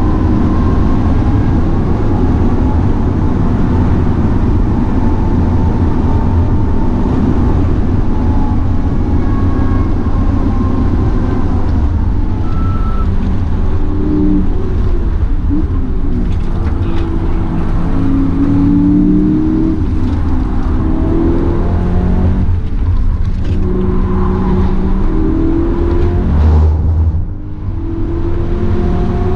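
BMW E92 M3's 4.0-litre V8 driven hard, heard from inside the cabin over a steady low rumble of road noise. The engine note climbs and drops again and again as the car accelerates and brakes through corners, with a brief dip in level near the end.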